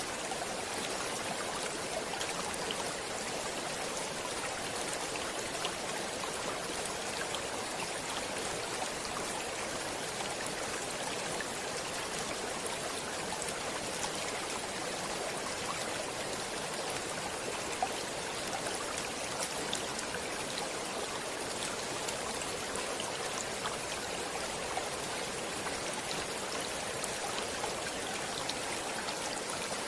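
Stream water flowing steadily: an even rush with many small splashing ticks and little low rumble.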